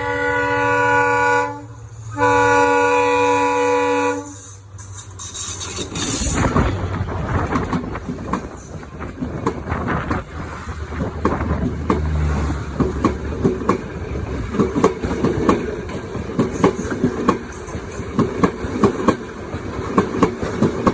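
Train horn sounding two long blasts, then the train rolling past with a rapid, uneven run of wheel clicks and knocks over a low rumble.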